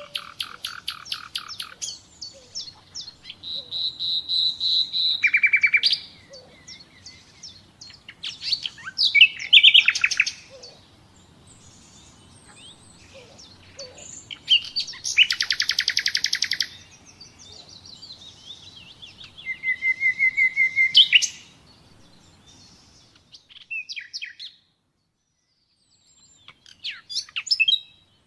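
Nightingale singing in separate phrases: bursts of fast repeated notes and rapid trills alternate with long pure whistles, one of them ending in a quick upward sweep, with short pauses between phrases. The song breaks off completely for about two seconds near the end, then comes back softer.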